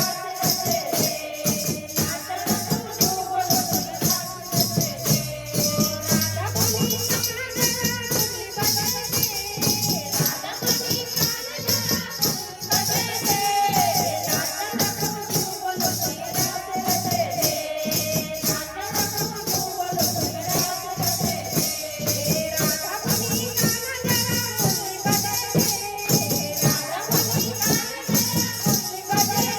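Hindu devotional bhajan to Mata Rani: a voice singing a wavering melody over fast, steady rhythmic percussion.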